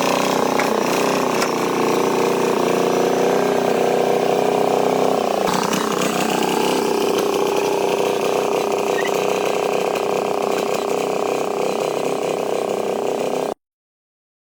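Tractor engine running steadily with mechanical clatter; about five and a half seconds in its pitch shifts upward. The sound cuts off to silence about a second before the end.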